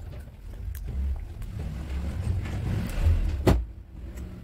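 Crunchy chips being chewed close to the microphone, over a steady low rumble. A sharp click comes about three and a half seconds in.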